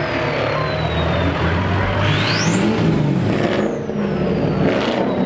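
Vehicle engine revving, with a high whine that climbs sharply about two seconds in, then slowly falls.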